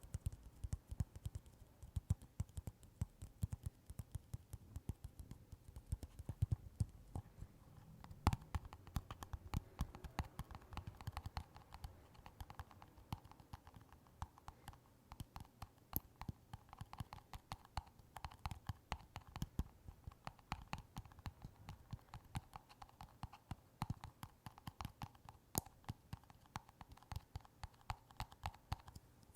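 Rapid, irregular light tapping, several taps a second, with a few sharper, louder clicks. From about eight seconds in, the taps carry a ringing note.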